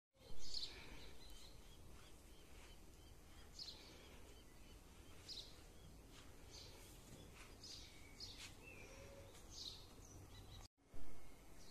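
Outdoor ambience: birds chirping now and then over a low steady rumble. A short loud bump comes right at the start, and another just after a brief dropout near the end.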